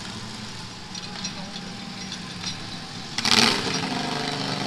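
Small pulling-tractor engines running. About three seconds in there is a short, loud sudden burst, and after it an engine runs louder at a steady pitch.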